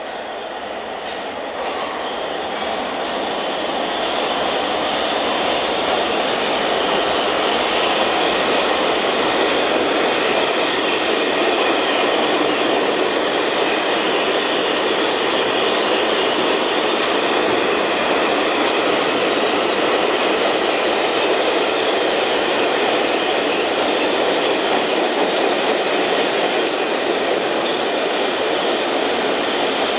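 MTA R142 subway train with Alstom ONIX propulsion running express through a station without stopping. A loud, steady rush of steel wheels on rail builds over the first few seconds, then holds as the cars go by.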